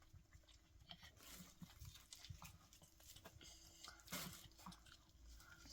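Near silence: faint scattered clicks and rustles, one a little louder about four seconds in.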